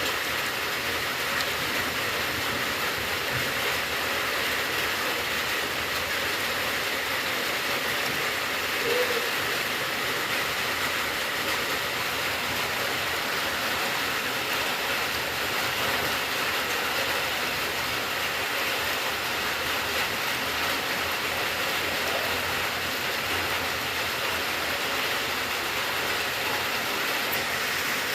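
Steady rainfall, an even hiss of rain without let-up or change in strength.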